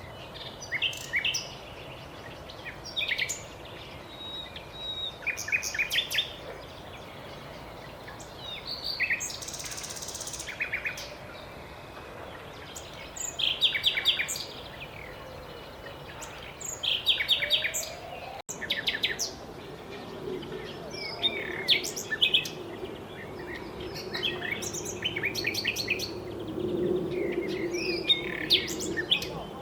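Common nightingale singing: short, varied phrases a second or two apart, several of them made of fast runs of repeated notes.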